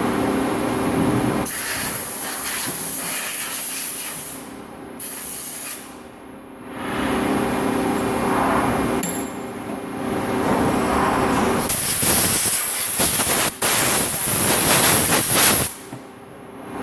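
High-pressure spray hissing in repeated bursts of a few seconds each at a CNC machine, the longest and loudest near the end, over the steady hum of the machines.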